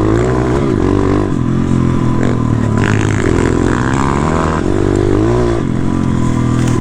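Four-stroke pit bike engine running as the bike is ridden along a dirt trail, the revs rising and falling over and over with the throttle.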